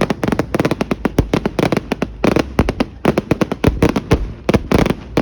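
Fireworks going off in a rapid, irregular string of sharp bangs and crackles, several a second, thinning out near the end.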